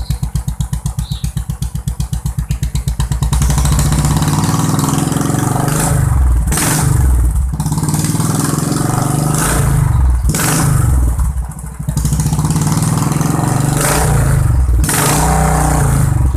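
Royal Enfield motorcycle engine through an aftermarket racing exhaust, idling with even, separate pulses for about three seconds. It is then held at a higher speed and revved up and back down several times.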